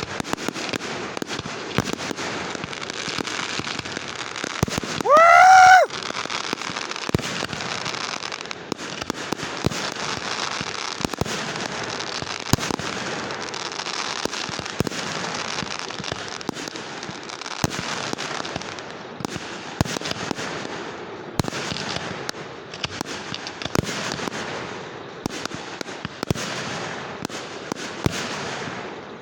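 Fireworks going off: a dense, continuous crackling with many sharp pops and bangs. About five seconds in, a loud rising whistle from a whistling firework lasts about a second.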